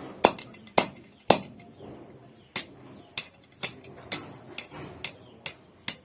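A series of sharp taps or knocks while steel wire is being worked into shape: three hard ones in the first second and a half, then a steady run of about two a second. Crickets chirr steadily underneath.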